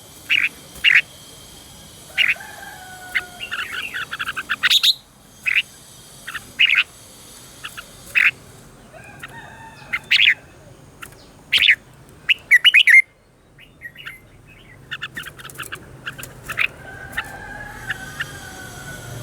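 Red-whiskered bulbul singing: clusters of short, sharp, clear notes with a few sliding phrases, broken by pauses, over a steady high-pitched hiss.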